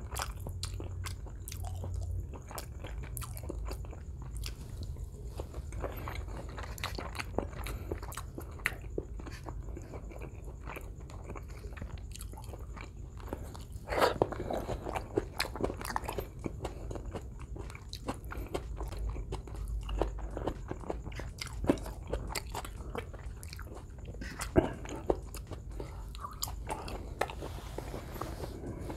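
Close-miked chewing and mouth sounds of a man eating beefsteak and rice with his fingers: many small wet smacks and clicks, with a louder flurry about halfway through and another near the end.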